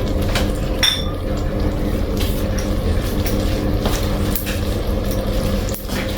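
Watery sauce sloshing in a cooking pot, with light clinks of a spoon against the pot, one ringing clearly about a second in, over a steady low hum.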